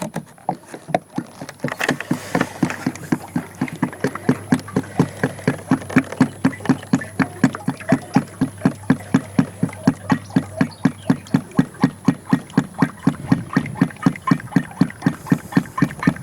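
Ford 2000 tractor's three-cylinder engine idling with an even, steady chug while its hydraulic system is flushed with fresh fluid.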